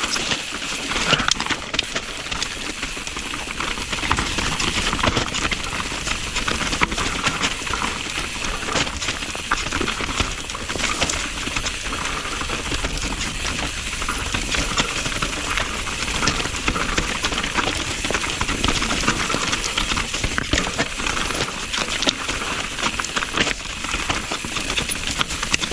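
Mountain bike clattering down a wet, rooty trail: a constant rattle of the frame, chain and components with dense, irregular knocks as the wheels hit roots and rocks.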